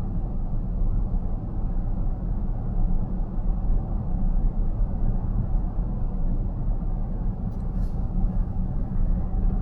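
Road and tyre noise inside a moving car's cabin: a steady low rumble at speed, with a brief faint hiss about three-quarters of the way through.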